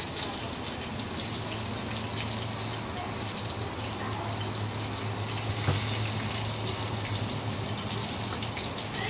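Crickets sizzling as they fry in a small nonstick pan over a gas burner, a steady hiss while chopsticks stir them, with one light tap about halfway through.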